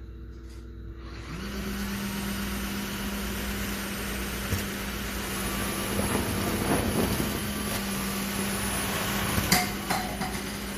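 Dreame H12 Pro wet-dry vacuum running its self-cleaning cycle on the dock. Its motor spins up about a second in, rising to a steady hum with a whirring rush over it, and a few sharp clicks come along the way.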